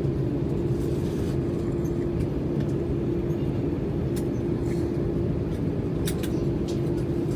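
Steady cabin noise inside an Airbus A320-200 just after landing: a low rumble with a constant hum. A few faint clicks sound on top, the clearest about six seconds in.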